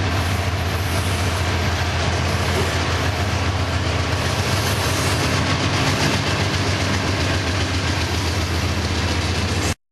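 A train running by with a steady, loud rumble and a low engine hum. It cuts off suddenly near the end.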